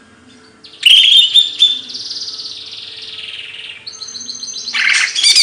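A songbird singing: sharp chirps about a second in, then a long trill that slides down in pitch, and a fast run of chirps near the end.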